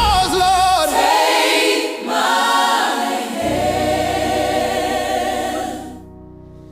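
AI-generated gospel choir singing held, layered harmonies over backing music. About six seconds in, the music drops much quieter.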